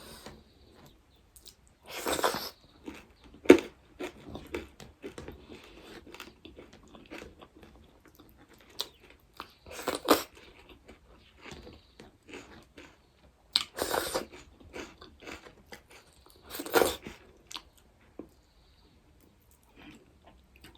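Close-up chewing of crunchy food, with wet mouth clicks and crackles throughout and about five louder crunching bites.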